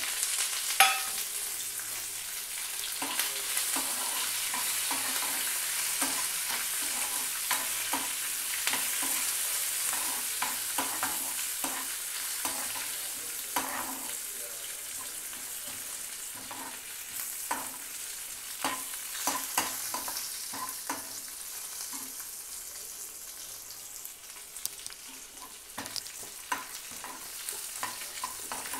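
Tempering sizzling in hot oil in a nonstick pan, with curry leaves, dried red chillies, garlic and dals frying while they are stirred, and many sharp clicks and pops over the hiss. The sizzle is loudest near the start, just after the curry leaves and chillies go in, and slowly dies down.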